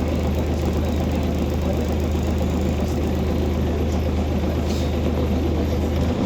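Scania OmniCity city bus's engine heard from on board: a steady low engine hum with no change in pitch, which breaks up briefly at the very end.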